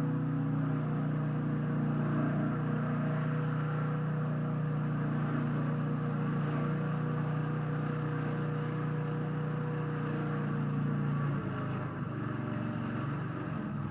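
Engine driving a swing-blade sawmill running steadily under load, then faltering about eleven seconds in as its steady note breaks off: the engine is starved of fuel because the fuel tap was left turned off.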